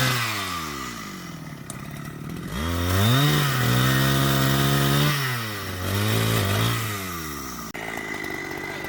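Small two-stroke chainsaw engine being throttled up and let back down several times, with a longer high rev held for about two seconds in the middle. The sound changes abruptly to a steadier, lower running near the end.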